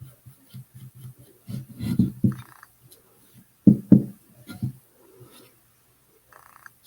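A run of soft knocks and rubbing from things being handled, with louder thumps about two seconds in and again about four seconds in.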